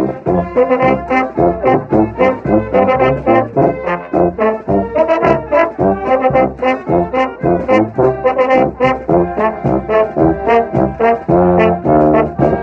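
Brass band, with trombones and trumpets, playing a lively, rhythmic tune with a steady percussive beat. The music starts up just as a held chord and short break end.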